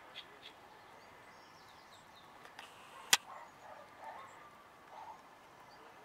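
Quiet outdoor ambience with a few faint, high bird chirps. There is one sharp click about three seconds in.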